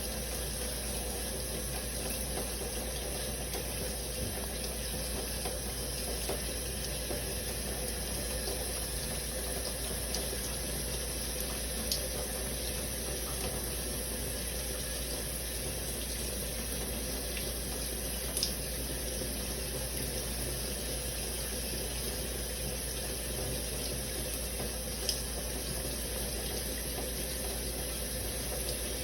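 Shower running steadily, a constant spray of water, with a few brief sharp ticks standing out.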